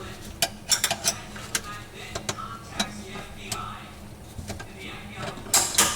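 Sharp metal clicks and clinks, scattered irregularly and loudest near the end, as the mounting ring and hardware of a garbage disposal's sink flange are fitted and worked into place by hand.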